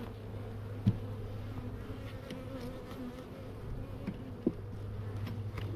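A swarm of honey bees buzzing around an open hive as frames are moved, a steady hum. Two light knocks are heard, about a second in and near the end.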